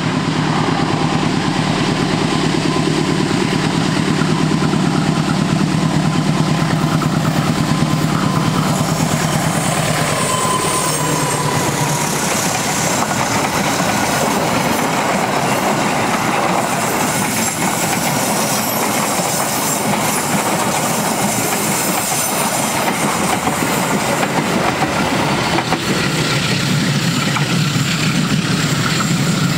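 Passenger train passing close by: a steady diesel locomotive engine hum for the first dozen seconds, then the continuous rumble and clatter of the coaches' wheels on the rails.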